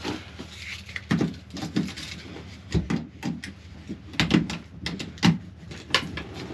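About ten irregular knocks and clicks on a calf warming box as it is shut and handled.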